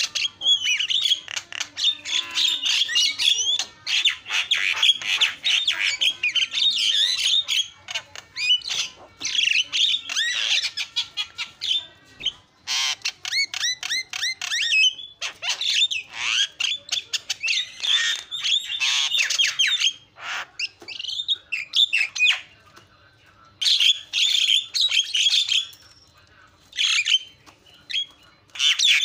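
Javan myna in full song: a fast, varied run of harsh squawks, chatter and squeaky whistles, coming in bursts broken by short pauses.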